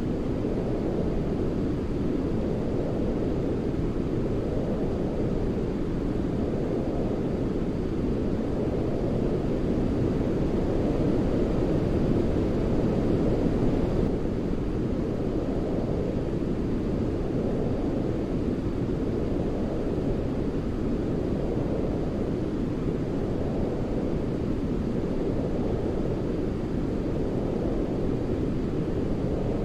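Steady, deep rushing white noise for lulling a baby to sleep, weighted toward the low end like brown noise, gently swelling and ebbing every four or five seconds.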